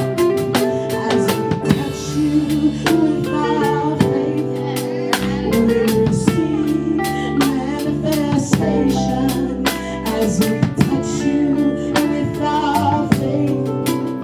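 Live gospel band music with a drum kit keeping a steady beat under sustained chords, with some singing.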